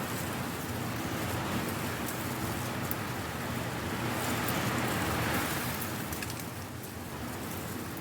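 Strong wind blowing and tumbling dry leaves: a dense, crackling rustle that swells around the middle and eases off near the end.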